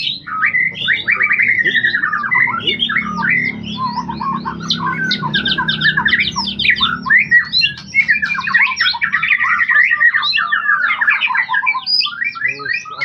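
White-rumped shama (murai batu) singing a loud, fast and varied song of rapid whistled sweeps and trills with no break, over a faint steady low hum.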